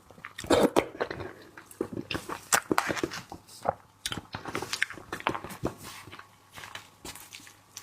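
A person eating seafood close to the microphone: chewing and biting, with many short, sharp mouth clicks and smacks at an irregular pace.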